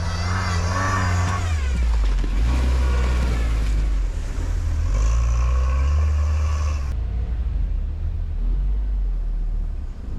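Quad bike (ATV) engine revving, its pitch rising and falling several times as the throttle is worked.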